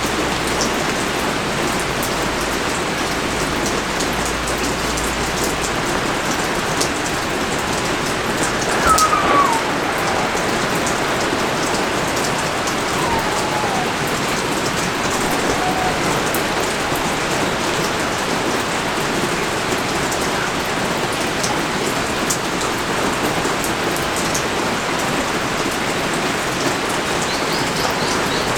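Steady pouring rain, with close raindrops pattering and ticking on a surface. About nine seconds in there is a brief, slightly louder spot and a faint falling whistle-like call.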